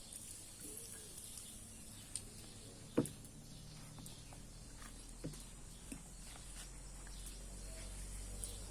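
A few short, faint knocks and clicks, the loudest about three seconds in, over a low background hum that comes in about halfway through.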